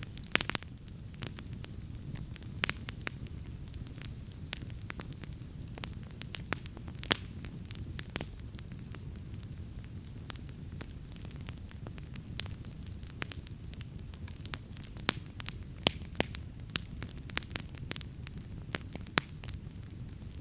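Wood campfire crackling, with frequent irregular sharp pops and snaps, a few louder than the rest, over a steady low rush.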